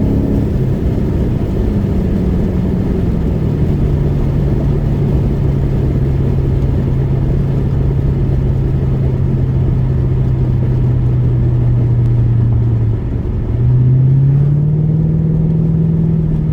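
Car engine and road rumble while driving: the engine's drone steps down in pitch in the first few seconds, holds steady at cruise, then climbs again near the end as the car accelerates.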